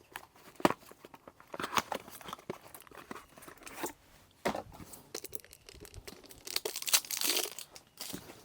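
Irregular clicks, knocks and scrapes of hands and tools working the oil filter off a Kubota mini digger's engine during an oil change, with a longer scraping rustle near the end.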